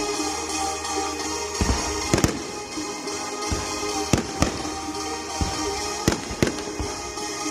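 Fireworks bursting: about nine sharp bangs at irregular intervals over continuous music.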